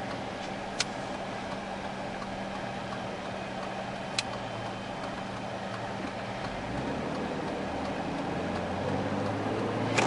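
Car running, heard from inside the cabin: steady engine and road noise, the engine hum growing louder about two-thirds of the way in, with three short sharp clicks spread across it.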